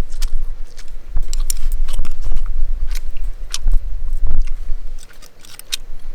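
Eating at close range: chewing, with many sharp clicks and clinks of a utensil against a metal mess tin, over a steady low rumble.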